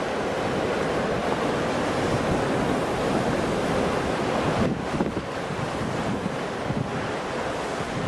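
Ocean surf washing continuously, with wind rumbling on the microphone. The wash thins briefly about halfway through.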